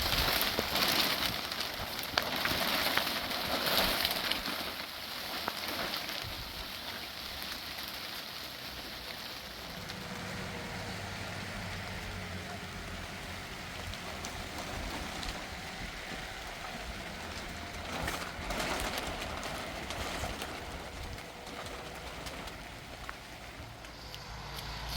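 Rain falling with a steady patter, heavier and crackling for the first few seconds, then settling into an even hiss.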